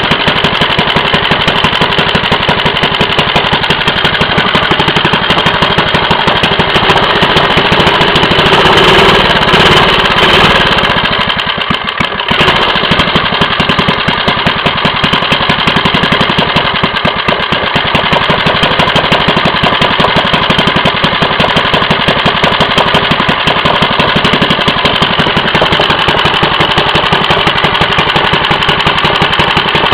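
3.5 hp Briggs & Stratton single-cylinder small engine running steadily, now fed fuel through its newly replaced carburetor pickup tube. It gets louder for a few seconds about eight seconds in, dips briefly around twelve seconds, then settles back to a steady run.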